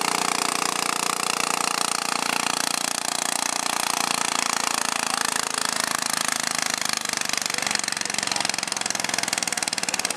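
Garden pulling tractor's engine running loud and steady with a fast, even firing beat that grows sharper near the end.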